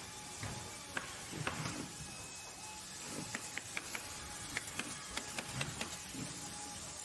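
Factory machinery ambience: a steady mechanical hiss with irregular sharp clicks and knocks scattered through it, and a faint steady tone.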